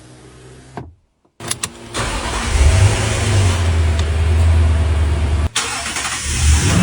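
Toyota Sequoia's 5.7-litre V8 starting and running: a few clicks, then the engine catches about two seconds in and runs loudly and steadily, with a brief drop-out near the end.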